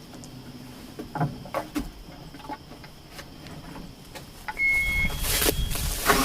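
Cat 320C excavator starting up after a throttle control module repair: a few clicks, a single short beep from the cab, then the diesel engine cranks and catches near the end.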